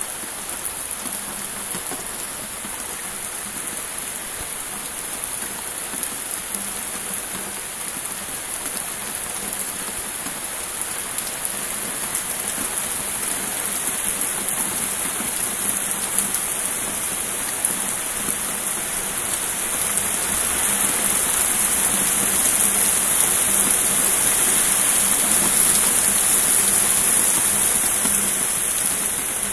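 Heavy thunderstorm rain falling steadily, growing heavier about two-thirds of the way through and easing slightly near the end.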